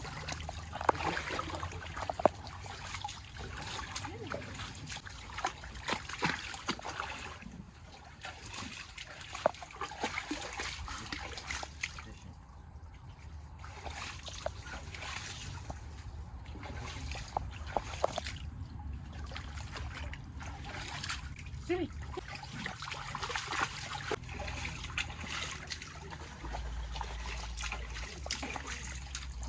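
Water splashing and trickling, with many irregular small splashes and clicks, as of movement through shallow marsh water.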